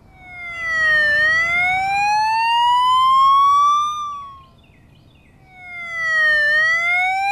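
Police car siren wail, played as a cartoon sound effect. The pitch dips briefly, then climbs slowly for about three seconds and stops. After a short gap, a second wail begins the same way.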